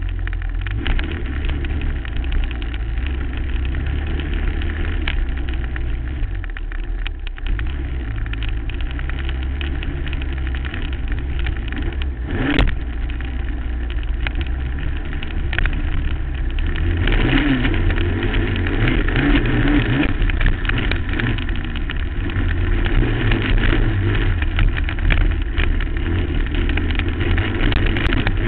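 2008 Suzuki LT-R450 quad's single-cylinder four-stroke engine running hard and revving up and down over the bumps and jumps, heard from a helmet-mounted camera with wind noise. There is a sharp knock about twelve seconds in, and the engine gets louder for the last ten seconds or so.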